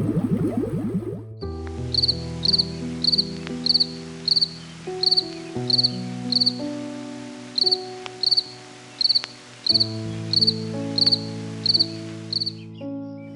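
An insect, cricket-like, chirping in a steady rhythm of short, high chirps, about two a second, with a brief pause midway. Background music with sustained chords plays under it.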